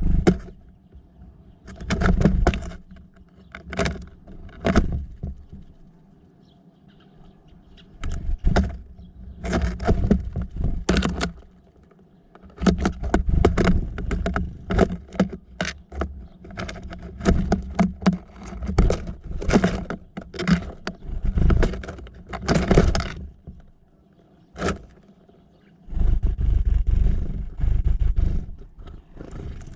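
Small birds at a feeder, pecking and scrabbling: a run of irregular knocks, taps and scrapes in clusters, with some heavier low thumps.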